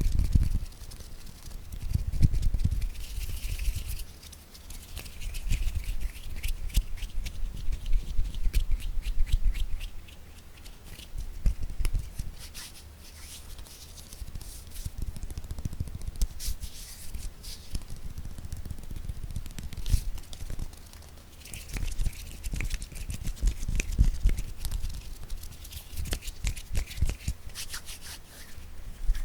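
Hands tapping for ASMR: fast, dense fingertip taps and clicks, with stretches of heavier, deeper thumps mixed in.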